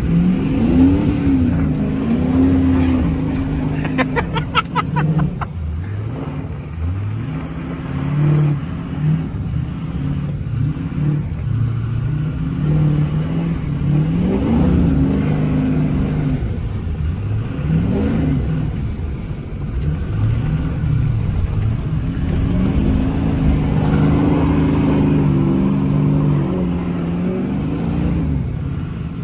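Tuned 6.0 Powerstroke V8 turbodiesel in a 1979 Ford F-250 revving up and down repeatedly while driving in snow, heard from inside the cab. There is a short run of fast ticks about four seconds in.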